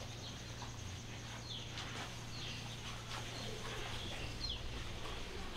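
Quiet room ambience: a few short, falling bird chirps over a low steady hum.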